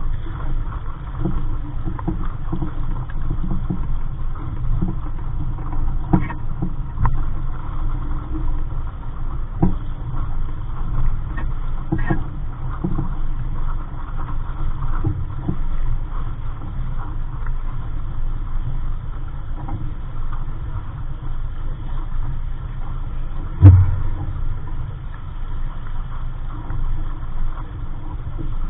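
Wind noise on the microphone and water splashing against the hull of a small sailboat under way, with scattered light knocks and one sharp thump about 24 seconds in.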